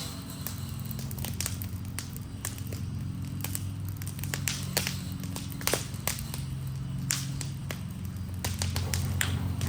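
Wood fire from a burning Adirondack chair crackling, with irregular sharp pops and snaps over a steady low hum.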